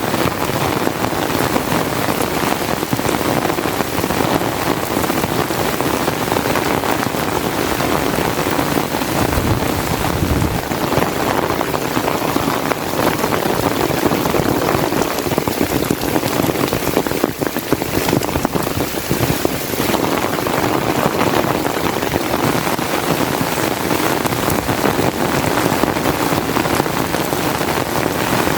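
Rain falling steadily, a dense, even patter with no break.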